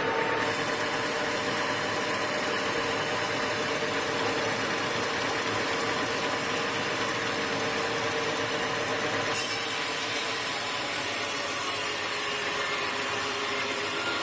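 Sawmill machinery running steadily, a dense mechanical noise with a constant level. About nine seconds in, the sound turns abruptly brighter and hissier.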